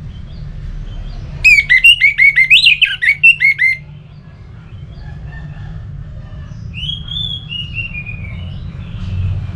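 Orange-headed thrush singing: a loud, rapid run of rich whistled notes for about two seconds, starting about a second and a half in, then a softer falling whistled phrase near the end, over a steady low hum.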